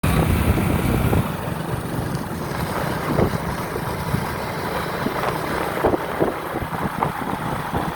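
Motorcycle running on the move, with wind buffeting the microphone and a few short knocks.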